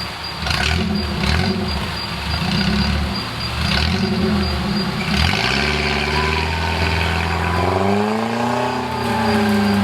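Off-road 4x4's engine running through a river crossing, uneven at first, then revving, rising and then falling in pitch over the last few seconds.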